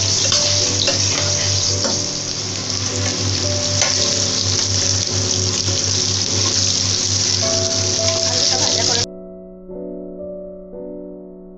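Steamed potato chunks sizzling and spitting in hot mustard oil in a steel kadai, with a metal spatula scraping and clicking against the pan. The sizzling cuts off suddenly about nine seconds in, leaving soft background piano music.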